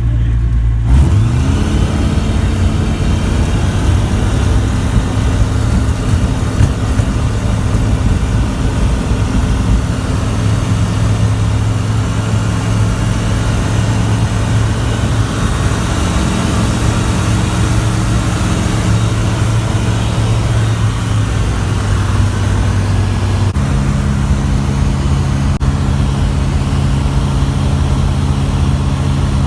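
Zenair Zodiac CH 601 light aircraft's piston engine and propeller running. The engine revs up about a second in and runs steadily, then steps up to a higher, steady pitch about three-quarters of the way through.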